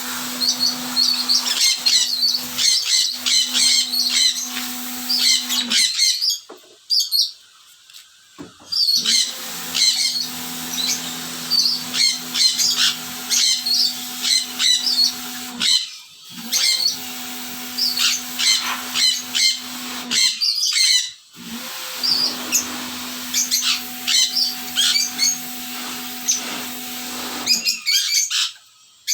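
Pet lovebirds and a sun conure chirping over and over, over the steady hum and hiss of an electric water pump used to spray the cage trays. The pump stops and restarts three times and cuts out near the end.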